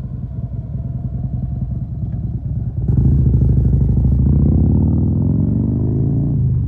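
Wind rumble on the microphone while riding. About three seconds in, a louder motor-vehicle engine starts, its pitch falling as it goes by, and it drops away sharply near the end.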